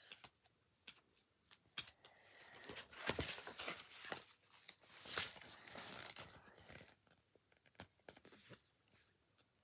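Paperback books being handled and shuffled: scattered light knocks and clicks with rustling of covers and pages, busiest in the middle.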